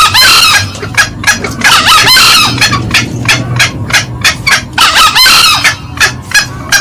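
Green junglefowl calling: three short, harsh crowing bursts, one at the start, one about two seconds in and one about five seconds in, over a run of short clucking notes several times a second.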